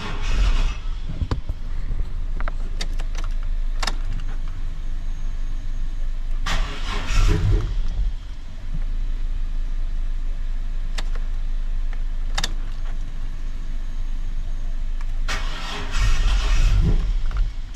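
Chevy pickup's V6 being cranked over in three attempts that do not catch. The owner puts the no-start down to a dead battery that made the alarm cut everything off.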